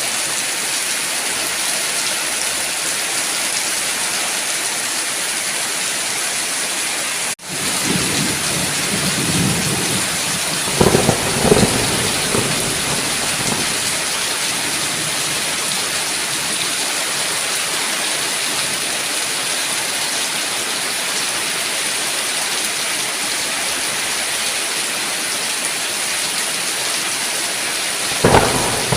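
Steady heavy rain with thunder: after a split-second dropout about a quarter of the way in, a low rumble of thunder builds and rolls, loudest a few seconds later, and another short thunderclap sounds near the end.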